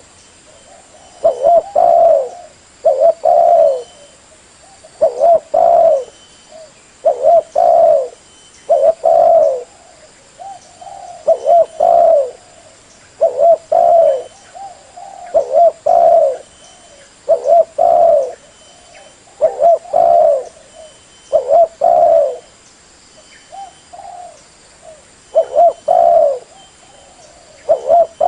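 Spotted dove cooing, a loud call repeated in short phrases roughly every two seconds.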